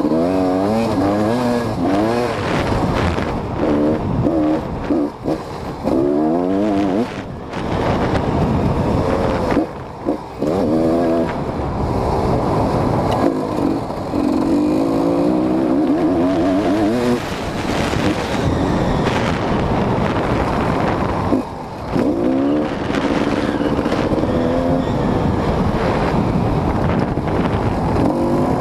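GasGas EC 250 two-stroke dirt bike engine being ridden hard, revving up and dropping back again and again as the throttle is worked through the gears, with a couple of brief cuts in the throttle.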